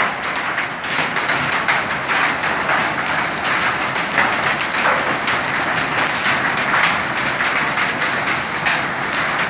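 Hailstorm: hailstones and rain pelting down hard, a steady dense hiss full of countless sharp ticks of stones striking surfaces.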